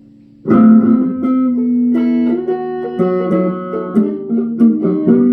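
Guitar being played: plucked notes and chords starting suddenly about half a second in, a new note roughly every half second, cut off near the end.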